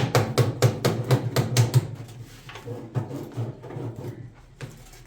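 Rapid, even knocking, about five blows a second, that stops about two seconds in, followed by quieter scattered clatter.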